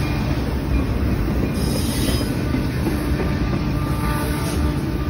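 Union Pacific intermodal freight train's cars rolling past close by, a steady loud rumble of steel wheels on rail. Faint high wheel squeal comes through around two seconds in.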